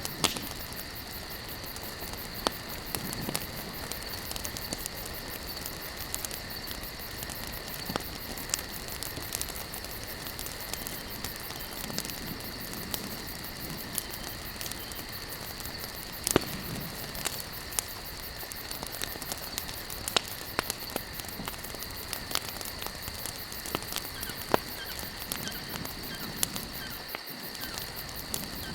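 Campfire burning with irregular sharp crackles and pops, some louder snaps standing out, over a steady high insect trill.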